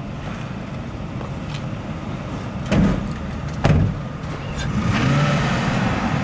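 A stuck truck's engine being gunned to drive out of soft sand, with two sharp loud surges about three and four seconds in. The revs climb again near the end.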